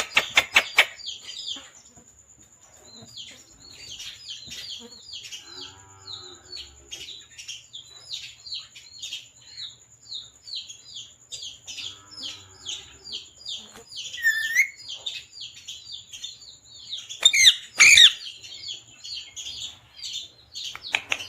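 A parrot chirping in a quick, unbroken series of short high chirps, with louder harsh calls at the start and again about seventeen seconds in. Two faint low calls come in around six and twelve seconds, and a thin steady high tone sits underneath.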